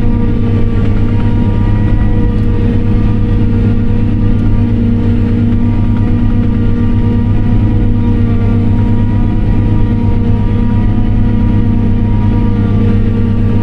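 Tractor engine running steadily at constant speed, heard from inside the cab: an even, loud drone with several held tones and no change in pitch.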